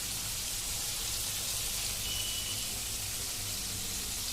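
Chicken pieces frying in hot oil: a steady sizzling hiss, with a low hum underneath.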